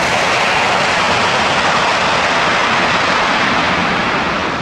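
Jet noise from a landing Airbus A320-232's IAE V2500 turbofan engines: a loud, steady roar that begins to fade near the end.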